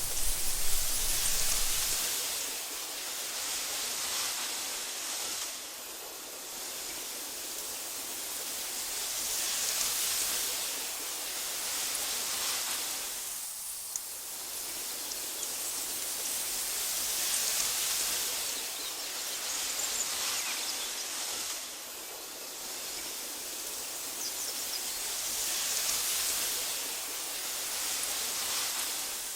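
Wind in tall meadow grass: a steady rustling hiss that swells and fades in gentle gusts every few seconds, with a brief low rumble in the first couple of seconds and faint high chirps.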